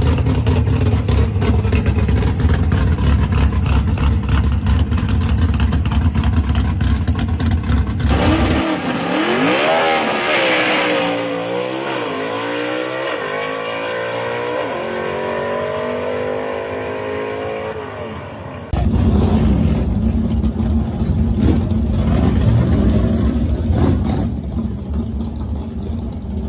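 Loud gasser drag car engines. First a heavy, rough rumble runs for about eight seconds. Then an engine revs with its pitch rising and falling several times, and a sudden cut brings back loud low rumbling.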